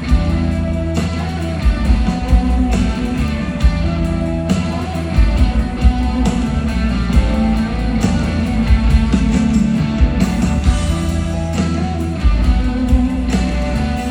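Rock band playing an instrumental passage of a song with no singing: electric guitar over bass and drums, with regular drum hits.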